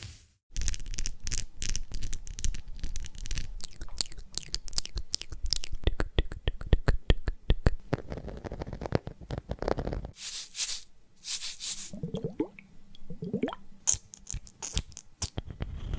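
Close-miked ASMR trigger sounds made by hand. About ten seconds of rapid tapping and clicking come first, then a few quick swishes, then short squishy, sliding sounds near the end.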